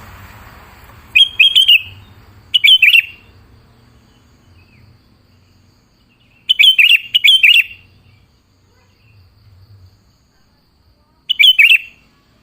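Sooty-headed bulbul (kutilang) song: short phrases of a few quick notes each, about five of them, separated by pauses of one to several seconds. This is a lure call meant to draw a bulbul into answering.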